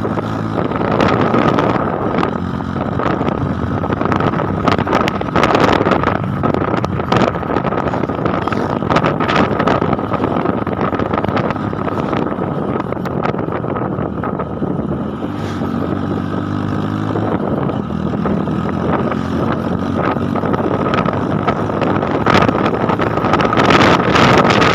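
A motor running steadily, with a constant high whine and wind buffeting the microphone.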